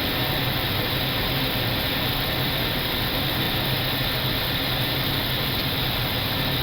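Steady flight-deck noise of an Airbus A320neo in flight: an even rush of air with a low steady hum beneath it.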